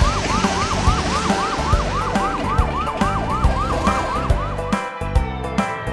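Cartoon fire truck siren in a fast yelp, rising and falling about four times a second, cutting off near the end, over background music with a steady beat.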